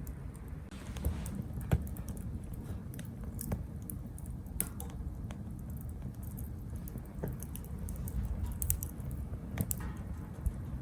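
Small wood fire crackling in a tabletop fire grill: irregular sharp pops and snaps over a low steady rumble.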